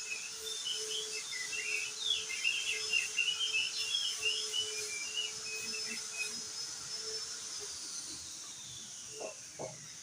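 Opior jambul (crested dark-eye) singing a fast jumble of short chirping notes for about six seconds, then falling quiet. Under it a thin steady high tone slides down in pitch over the last couple of seconds.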